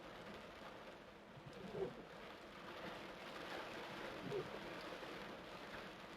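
Steady hiss of heavy rain, swelling briefly twice, about two and four seconds in.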